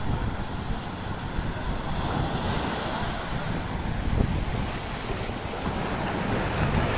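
Sea surf and wind buffeting the microphone: a steady rushing noise with a heavy low rumble.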